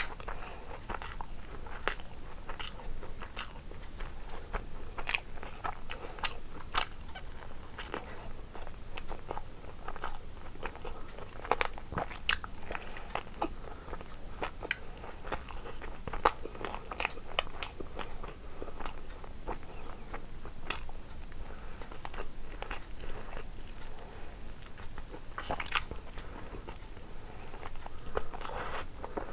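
A person eating close to the microphone: chewing and biting, with many sharp, irregular clicks throughout.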